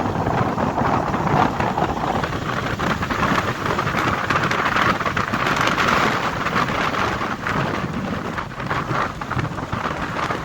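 Wind buffeting the microphone in a steady loud rush while riding in a fast-moving truck.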